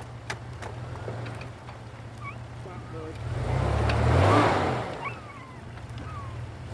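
Truck engine running steadily, then revving up about halfway through with a loud rush of noise before easing back. Short high chirps sound above it.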